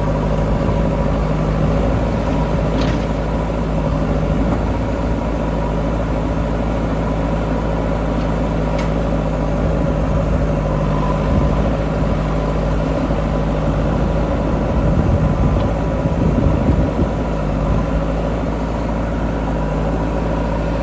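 Heavy diesel engines of a backhoe loader and tractors running steadily at work. The level swells briefly with a deeper rumble about three-quarters of the way through.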